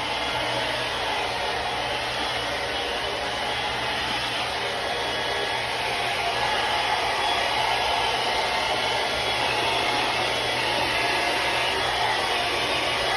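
Remington hair dryer running steadily: an even rush of air over a low motor hum, a little louder about halfway through.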